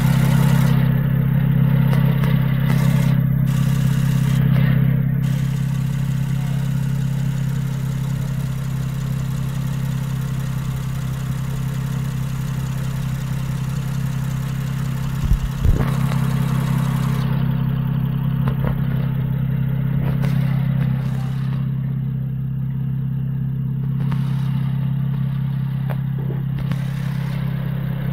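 Honda J30A 3.0-litre V6 engine idling steadily, with a couple of brief knocks about halfway through.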